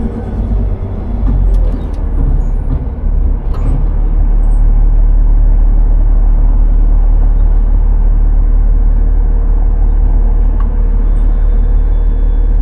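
Autocar-Heil front-load garbage truck's engine held at raised revs to drive the hydraulic packer: a steady, loud drone with a constant hydraulic whine over it. A few metallic knocks come about two to three seconds in.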